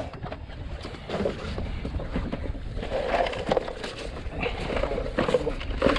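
Wind rumbling on the microphone, with a few faint clicks and knocks of gear being handled in the kayak.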